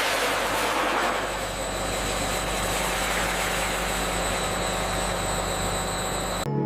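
Steady hiss of factory processing machinery running, with a low hum and a thin high whine; it cuts off suddenly near the end.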